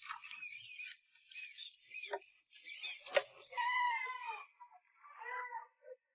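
Several kittens mewing over one another in high, thin, rising-and-falling mews, with two lower, longer mews in the second half. A single sharp click about three seconds in.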